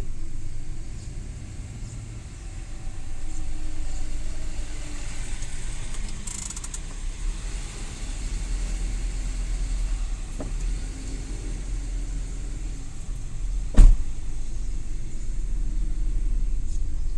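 Suzuki Every Wagon kei van driving: a steady low rumble of engine and road noise that swells and eases. One sharp knock about fourteen seconds in, the loudest sound, with a smaller click a few seconds before it.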